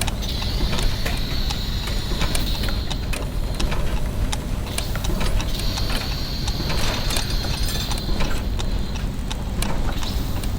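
Layered clockwork machinery: many ticking clock mechanisms and turning gears clicking irregularly over a steady low mechanical rumble. A high steady hiss comes in twice, for about three seconds each time.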